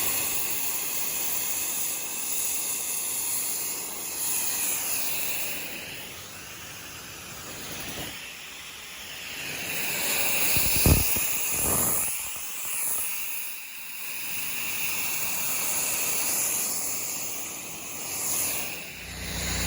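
Pressure washer wand spraying water through a fan tip, a hiss that rises and falls as the spray sweeps over the surface. A short sharp click about eleven seconds in.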